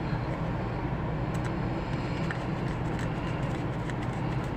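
Steady low background rumble, like distant traffic, with a few faint light clicks.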